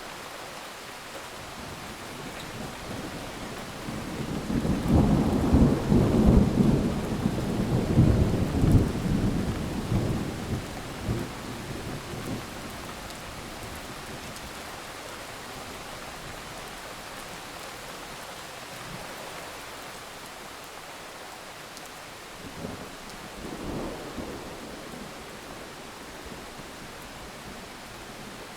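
Thunderstorm: steady rain with a long, loud rolling rumble of thunder about four seconds in that dies away over several seconds, and a fainter roll of thunder near the end.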